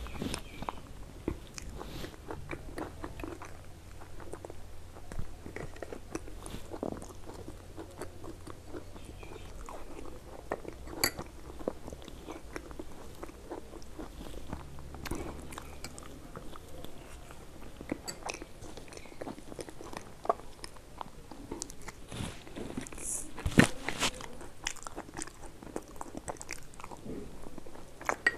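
A person biting and chewing food close to the microphone, crunching, with many small irregular mouth clicks. One sharper click stands out about two-thirds of the way through.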